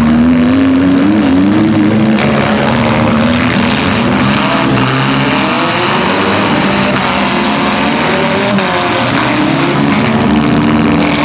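Engines of several compact demolition-derby cars running and revving, their pitch rising and falling unevenly, loud and continuous.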